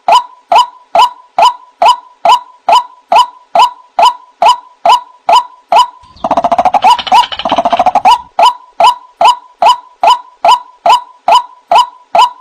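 White-breasted waterhen calls from a lure recording: a monotonous "wak" note repeated about twice a second. About six seconds in, a two-second burst of rapid harsh chattering breaks the run, then the steady notes resume.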